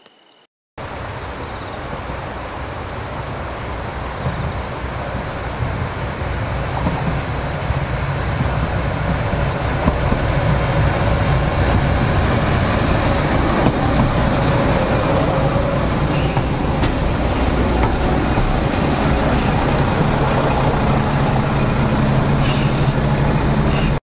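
Akita Nairiku Jūkan Railway diesel railcar coming up close: engine and running gear on the rails, growing louder over the first ten seconds and then holding steady. A brief high squeal comes about sixteen seconds in.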